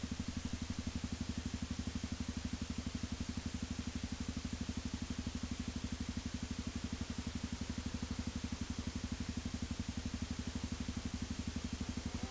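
An engine idling steadily, with an even, rapid pulsing beat.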